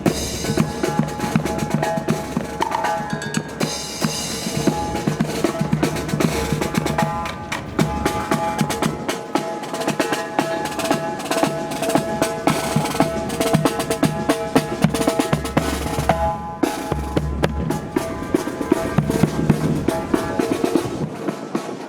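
Marching brass band playing a fanfare, with brass chords held over dense, rapid snare and bass drum strokes.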